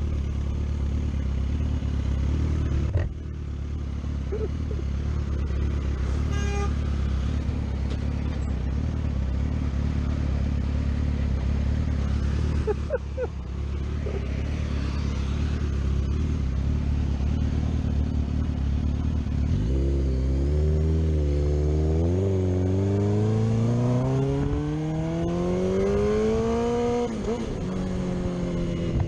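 Motorcycle engine running at a steady speed, then from about two-thirds of the way in revving higher and higher as it accelerates, with the pitch dropping back near the end at a gear change. A short knock or clatter is heard twice early on.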